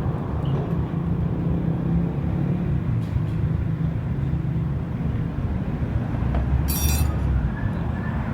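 Steady low rumble of motor vehicle noise, with a brief metallic clink about seven seconds in.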